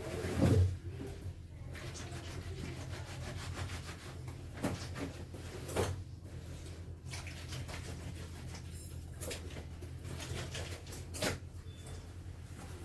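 Clothes being washed by hand: wet fabric rubbed and handled, with a few sharp knocks, over a steady low hum.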